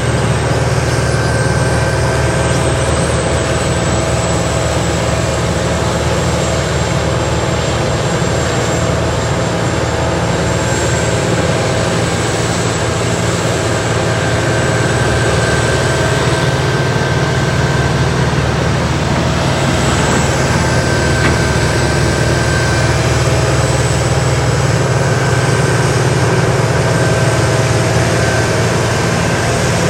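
Remote-controlled 80,000-pound tracked horizontal grinder running steadily, a loud, unbroken engine drone with steady humming tones.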